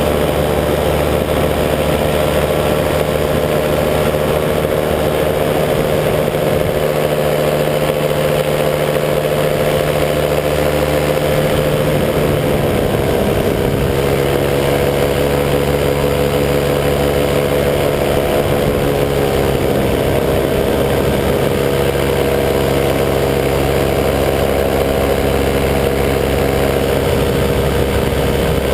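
185 cc EcXtreme paramotor's two-stroke engine and propeller running steadily in flight. The engine note shifts a little about halfway through and again a few seconds later, as the throttle is changed.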